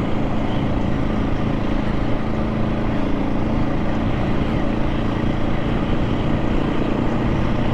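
KTM 690 SMC R single-cylinder engine running at a steady speed on the move, with no rise or fall in revs, under a constant rush of wind noise.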